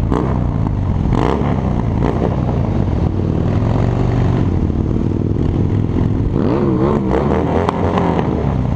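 Harley-Davidson V-twin motorcycle engine running under way, a steady low rumble. A brief wavering pitched sound rides over it about six and a half seconds in.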